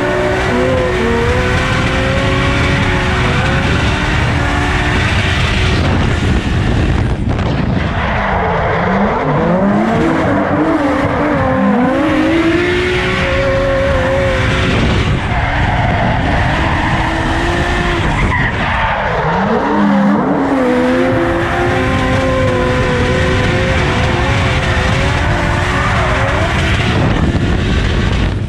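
Drift car's engine running at high revs, its pitch rising and falling with the throttle over steady tyre squeal. The revs drop sharply twice, about seven and nineteen seconds in, and climb back up each time.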